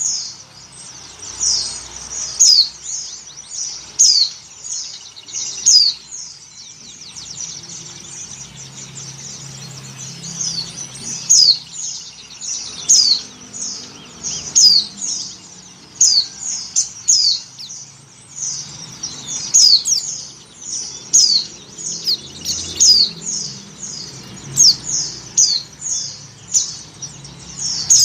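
White-eye (pleci) calling: runs of rapid, high, thin chirps, each sweeping downward, broken by short pauses. These are a female in breeding condition calling for a male.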